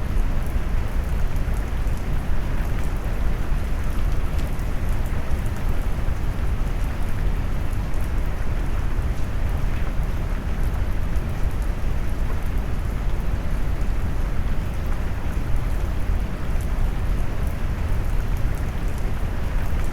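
Steady, deep rain noise: a dense, low hiss of heavy rainfall with the high end rolled off like brown noise, with faint raindrop ticks on top.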